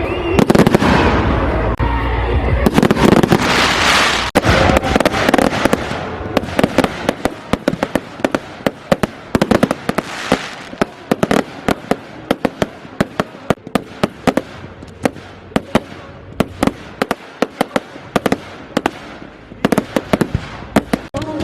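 Aerial fireworks going off: a dense, loud stretch of bangs and crackle for the first six seconds or so, then a quick run of sharp cracks and pops, several a second.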